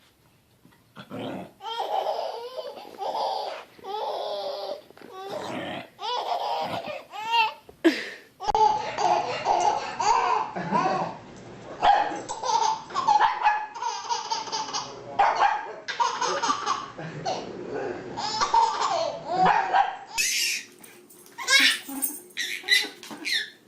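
People laughing, in bursts across several short clips, mixed with animal calls.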